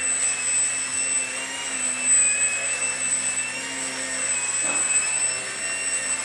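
Small electric motor and propeller of an indoor micro RC airplane running with a steady high-pitched whine, its pitch wavering slightly with the throttle.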